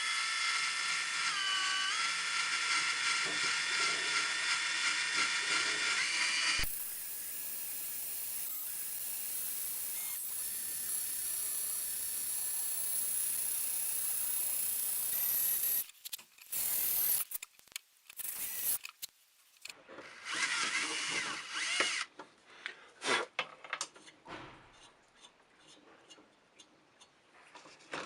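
Power drill motor running in long spells, its whine dipping briefly under load about two seconds in. It changes to a steadier, hissier sound a few seconds later, then runs in short start-and-stop bursts through the second half.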